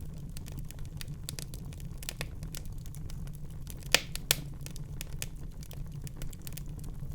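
Wood fire crackling in a fireplace: a steady low rumble under frequent small crackles, with two louder pops about four seconds in.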